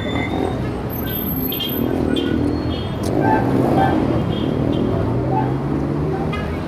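Heavy city traffic: a steady rumble of engines and tyres, louder near the middle as one vehicle's engine hum rises in pitch. Birds chirp in short high notes over the traffic.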